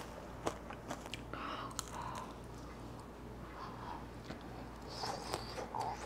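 Eating candied tangerine tanghulu: scattered small crunches as the hard sugar glaze cracks, with chewing between them.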